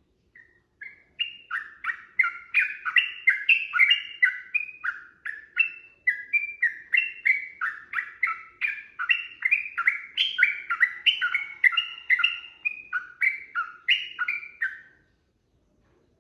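Yellow-vented bulbul (trucukan) singing a long, fast run of chirping notes, several a second, stopping about a second before the end.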